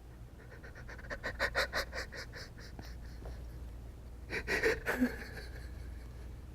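A man's voice acting out a grieving mother's sobbing: a run of quick, gasping sobs, then a second, shorter burst of sobs about four seconds in.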